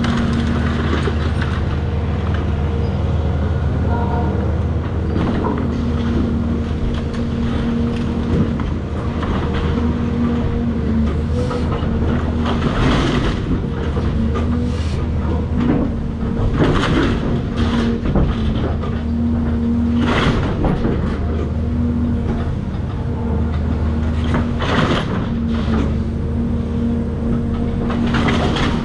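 Cat 336 hydraulic excavator's diesel engine running steadily under load, with several sharp knocks and crashes of demolition debris, about a dozen over the second half.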